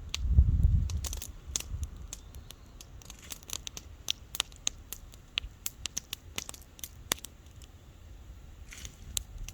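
Wood bonfire crackling: irregular sharp pops and snaps, several a second, densest in the middle. A low rumble swells and fades within the first second.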